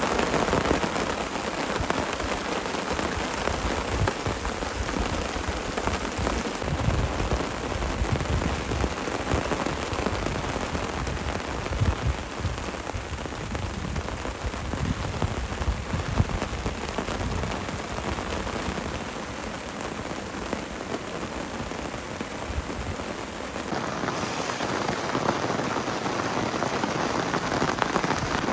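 Torrential rain pouring down steadily, drumming on a tarp shelter overhead.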